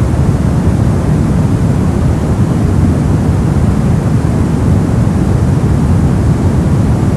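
Brown noise: a steady, deep rushing hiss, strongest in the lows and darker than white or pink noise, unchanging throughout.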